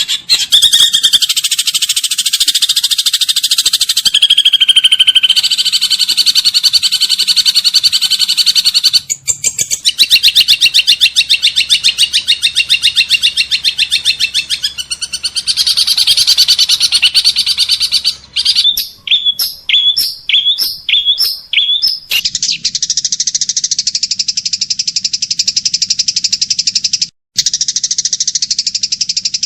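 Small songbirds singing dense, rapid, high-pitched trills and chirps. About two-thirds through comes a run of short rising chirps, followed by a steady buzzing trill that breaks off briefly near the end.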